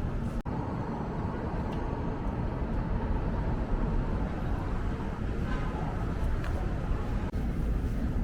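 City street ambience: a steady rumble of road traffic, with a brief dropout about half a second in.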